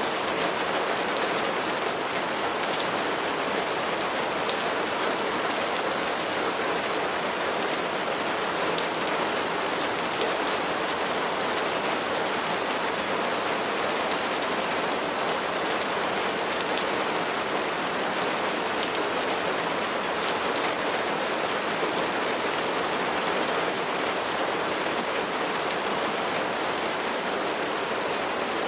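Steady rain falling, an even hiss of many drops hitting surfaces, with faint ticks of single drops through it.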